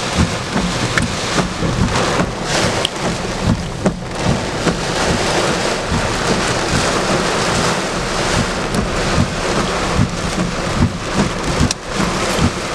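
Heavy rain pouring down in a severe thunderstorm, a dense steady rush with irregular low rumbling surges beneath it.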